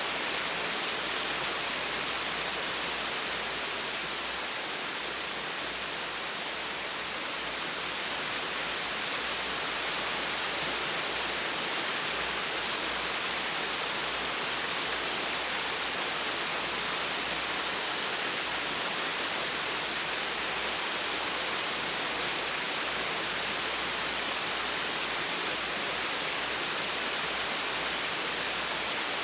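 Gentle waterfall with water falling and splashing steadily, making an even rushing hiss.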